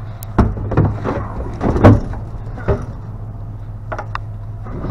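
A string of knocks and clatters from items being handled and set down, the loudest a little under two seconds in, over a steady low hum of an idling vehicle engine.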